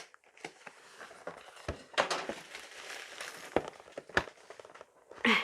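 Plastic packaging of a 3D-printer filament spool crinkling and rustling as it is handled, with a few sharp knocks. The loudest crinkle comes about two seconds in.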